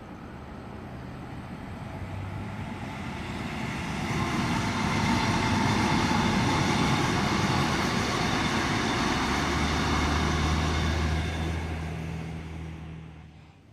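Double-deck electric suburban train passing along the line: wheel and rail noise builds over the first few seconds, holds loud, then fades near the end. A low steady hum joins in the last few seconds as the train goes by.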